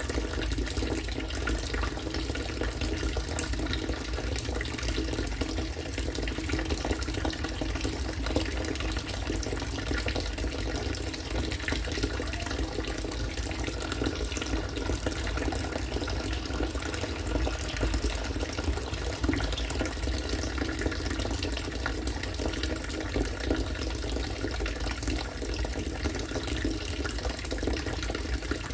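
Rainwater from a rain-harvesting setup falling steadily and splashing into water, an unbroken stream like a running tap.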